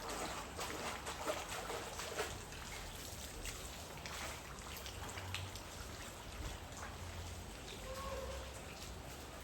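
Rain and runoff water trickling, with scattered drips ticking over a faint wash of water.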